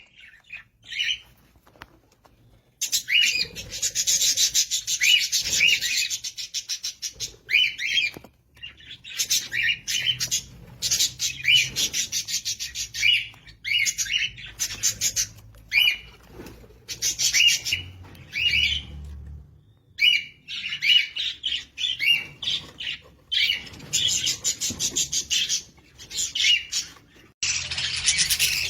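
Bird chicks begging to be fed: rapid, raspy chirping in repeated bursts of a second or two with short pauses between.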